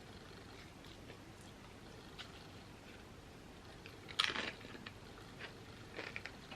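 A person biting into a crisp chip, one loud crunch about four seconds in, followed by a few fainter chewing crunches close to the microphone.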